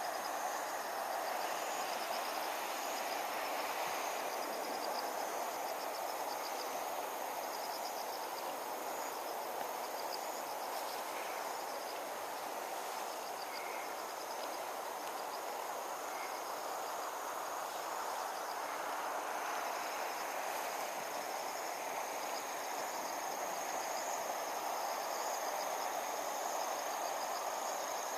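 Insects, crickets by their sound, trilling continuously: a steady high buzz with a rapidly pulsing chirp just below it. Under them runs a steady wash of background noise, with a few faint short chirps now and then.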